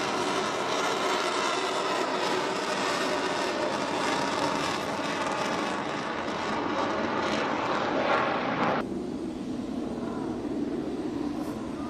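Jet aircraft engine noise, loud and steady with a faint whine in it. It changes abruptly about nine seconds in to a quieter, lower rumble.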